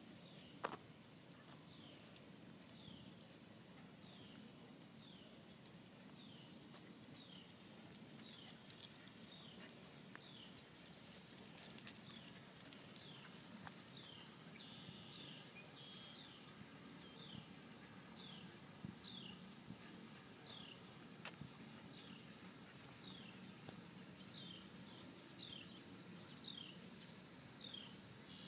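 A bird's short, high, falling chirp repeated steadily about every three quarters of a second, with scattered light clicks and rustles that bunch into a louder cluster around the middle.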